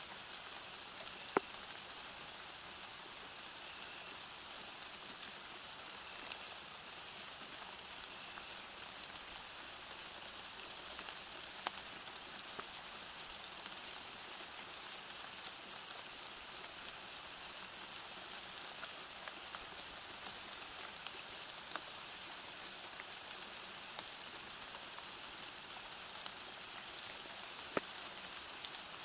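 Steady rain falling, an even hiss with scattered louder drop hits, the sharpest about a second in and near the end.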